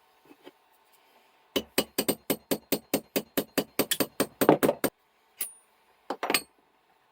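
Hammer hitting a steel Craftsman pin punch in a quick run of about fifteen ringing metallic strikes, growing louder, to drive the pin out of a small Record No. 1 vise. Near the end come one more single tap and a short double tap.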